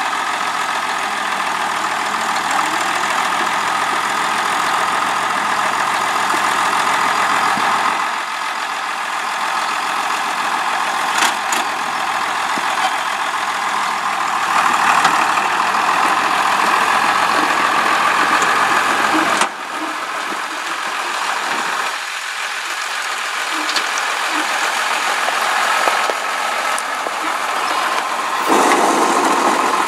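International farm tractor engine running steadily. Its sound shifts about a quarter of the way in, drops off abruptly about two-thirds of the way through and comes back up near the end, with one brief click about eleven seconds in.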